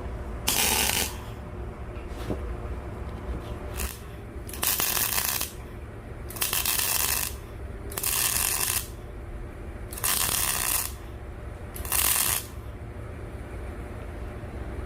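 Arc welding: about six short tack welds, each a burst of hiss lasting half a second to a second, a second or two apart, with a steady low hum underneath. The welds are fixing a steel secondary-air preheat box inside a homemade stove.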